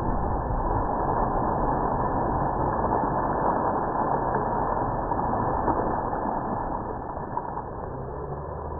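Motorboat engine running steadily under a noisy rush, growing gradually quieter over the last few seconds.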